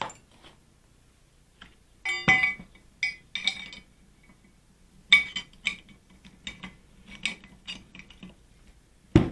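Metal parts of an MGB door hinge clinking and knocking as a pin is fitted through them: a string of sharp clicks and taps, with a louder knock near the end.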